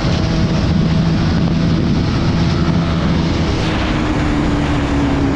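Motorcycle engine running at steady cruising speed, with heavy wind rush over the microphone; the engine note drifts slightly lower in the second half.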